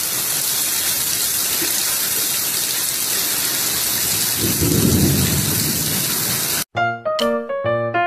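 Heavy rain pouring down in a steady hiss, with a low rumble of thunder about four to five seconds in. Near the end it cuts off suddenly and gives way to light piano music.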